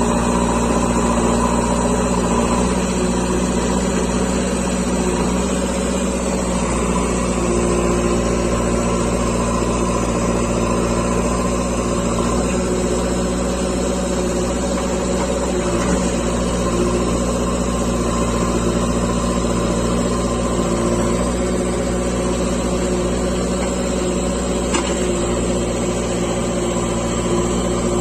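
JCB 3DX backhoe loader's diesel engine running steadily under working load, with a few higher tones rising and settling as the hydraulics are worked.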